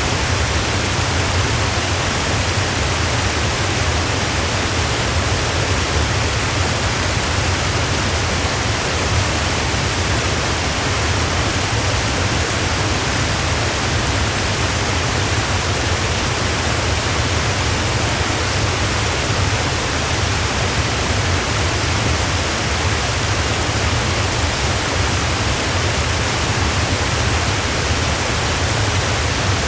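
Waterfall: a steady, loud rush of falling water with a deep low rumble, unchanging throughout.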